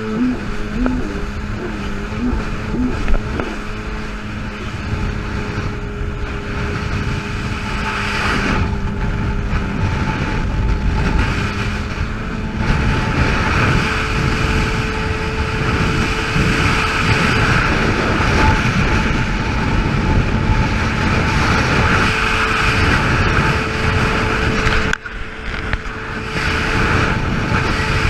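Yamaha GP800 jet ski's two-stroke twin running steadily under way, with the rush of water spray and wind over it that grows louder partway through and briefly drops off near the end.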